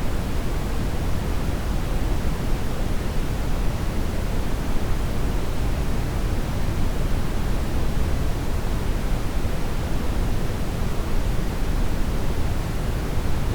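Steady brown noise: an even, unchanging hiss whose energy is strongest in the low end.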